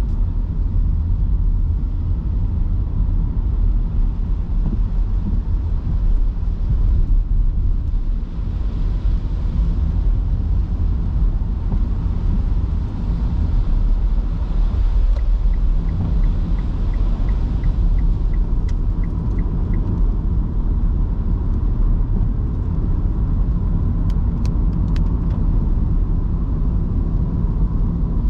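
Car cabin noise while driving on wet roads in heavy rain: a steady low rumble of tyres and road with a hiss of rain and spray. A little past the middle, a turn-signal indicator ticks about a dozen times, roughly two ticks a second.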